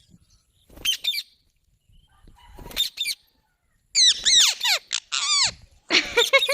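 Green parrot squawking: a couple of short calls, then a loud run of harsh, falling calls about four seconds in and again near the end.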